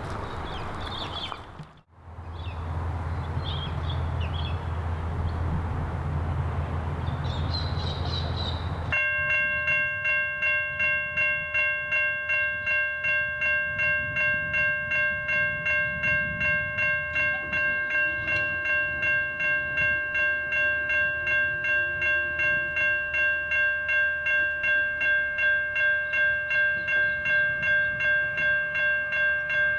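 Low wind rumble with a few short high chirps, then about nine seconds in a Safetran Type 3 electronic level crossing bell starts ringing, a steady bright tone struck about twice a second, as the crossing activates for an approaching train.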